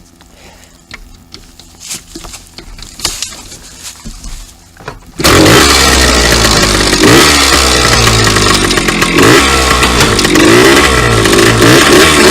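Two-stroke dirt bike engine: a few light clicks and knocks, then about five seconds in the engine starts suddenly and is revved up and down repeatedly.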